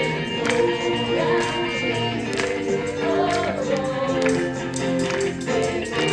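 Group singing a worship song with instrumental accompaniment, a tambourine striking a steady beat.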